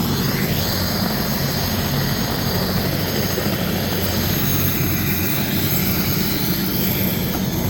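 Helicopter running steadily in flight: an even, loud drone of engine and rotor with a low hum.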